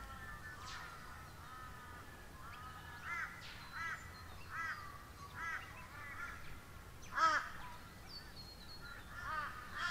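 Birds calling: overlapping calls at first, then a series of short, repeated calls about every three-quarters of a second from about three seconds in, the loudest near seven seconds.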